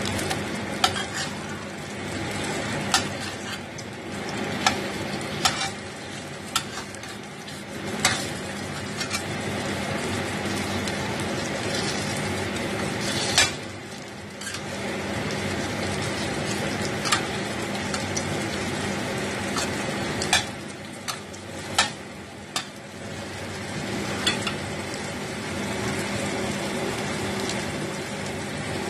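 Squid-paste balls sizzling as they fry in oil in a stainless steel pan, with a metal spoon clinking sharply against the pan every few seconds as they are turned.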